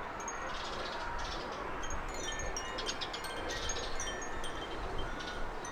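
Garden birds twittering in clusters of short, high-pitched tinkling notes over a steady outdoor hiss.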